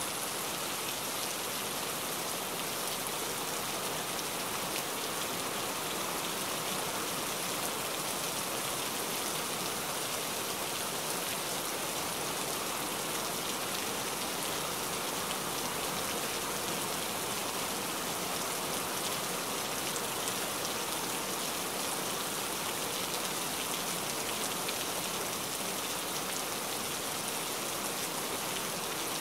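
Rain falling steadily, a dense, even hiss of many drops hitting the ground and standing water, unchanging throughout.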